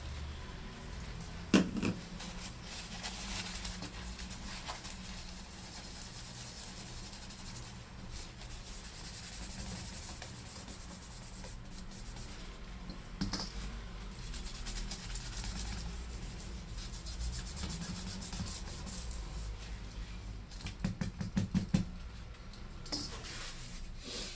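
Rubbing and wiping on a laptop's AMD processor as old thermal paste is cleaned off. There is a sharp click about one and a half seconds in and a quick run of small ticks near the end.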